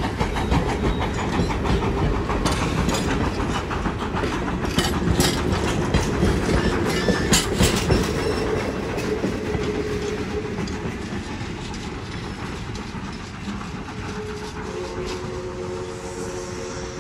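Train passing close by, its wheels clicking over the rail joints, the rumble fading away over the second half. Near the end a steady chord of several tones sets in.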